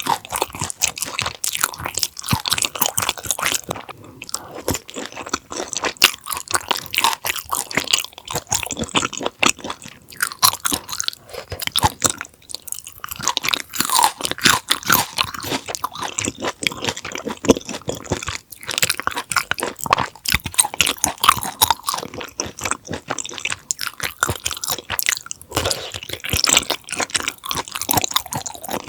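Close-miked chewing of raw conger eel sashimi: continuous crunchy, wet bites and mastication, with brief pauses a few times.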